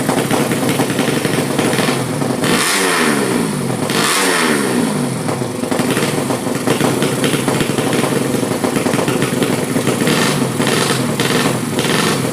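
Engine of a drag-built, high-compression Yamaha Jupiter motorcycle running loud and rough at idle. It is blipped twice, at about three and four seconds in, and the pitch falls back after each blip.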